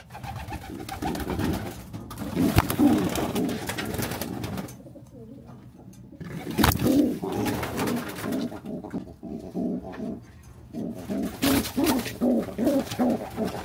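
Domestic pigeons cooing, a run of low, pulsing coos repeated again and again, with a couple of sharp knocks, one about two and a half seconds in and one about six and a half seconds in.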